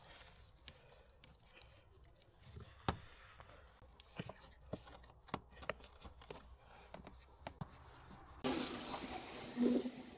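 Faint scattered clicks and taps of handling work, then an abrupt jump to a louder steady hiss about eight and a half seconds in.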